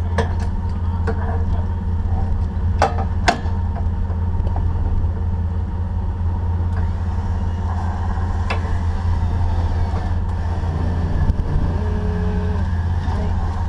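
Off-road Jeep engine running steadily at low revs, with a few sharp knocks in the first few seconds.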